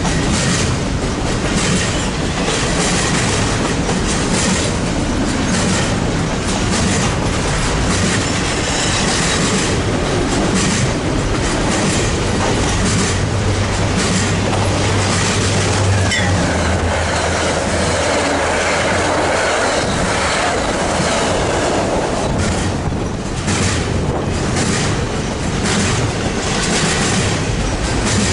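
Train rolling past close by: a steady rumble of wheels on rail with rhythmic clickety-clack over the rail joints and some wheel squeal. About halfway through, a low steady hum comes in for several seconds.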